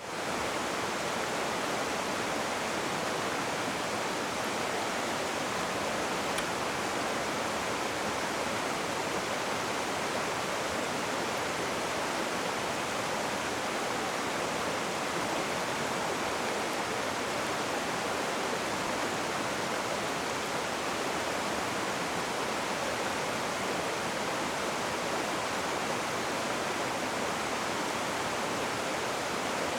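Rushing water: a steady, even rush of river water, with no other sounds.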